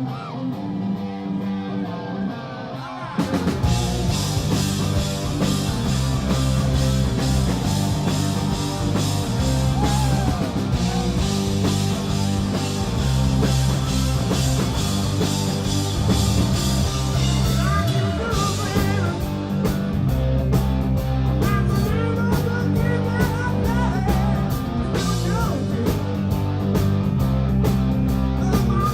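Hard rock band playing live and loud, with electric guitar, bass and drums. The opening few seconds are thinner and quieter, then the full band crashes in about three seconds in.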